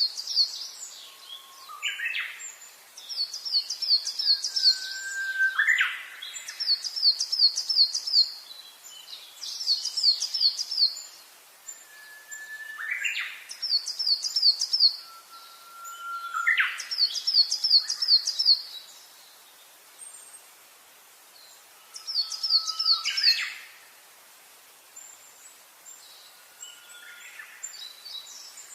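Songbird singing: phrases of a quick run of high, falling notes, each answered by a lower whistle that rises sharply, repeated every few seconds. The song pauses briefly about two-thirds through and thins out near the end.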